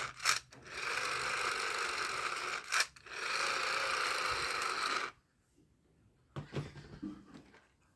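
A toy vehicle's small motor whirring steadily in two stretches of about two seconds each. It stops about five seconds in, and a few faint light knocks follow.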